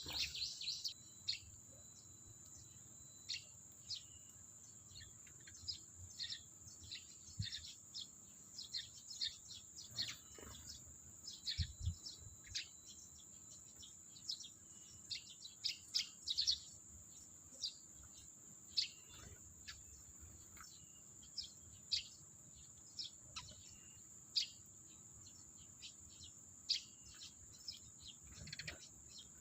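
Sparrows chirping: many short, irregular chirps, some in quick clusters, over a steady high-pitched whine.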